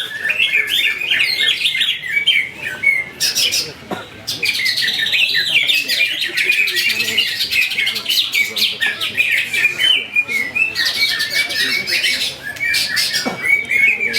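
Several caged cucak ijo (green leafbirds) singing at once, a dense run of quick overlapping chirps and whistles.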